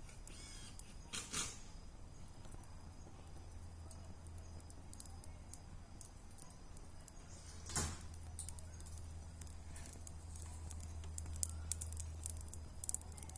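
Wood bonfire crackling, with scattered small pops and two louder snaps, one about a second in and one midway. A steady low hum runs underneath.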